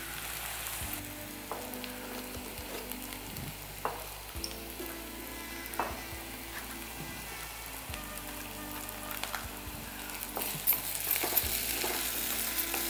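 Chicken pieces frying and sizzling in hot oil in a pan, with a few sharp clicks; the sizzling grows louder near the end.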